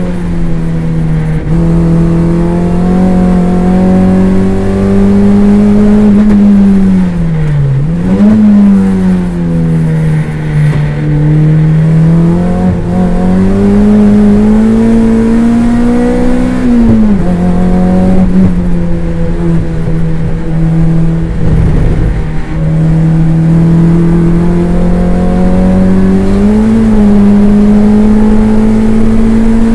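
Toyota MR2 race car's four-cylinder engine at racing load, heard from inside the car. Its pitch climbs steadily, falls sharply at gear changes, and once dips low and rises again.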